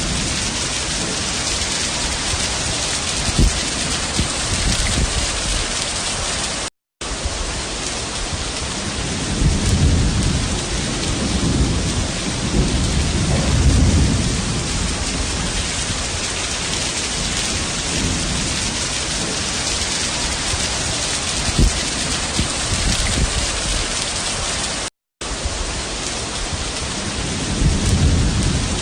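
Heavy rain pouring steadily, with low rolling rumbles of thunder swelling up about ten to fifteen seconds in and again near the end. The sound cuts out completely for a moment twice.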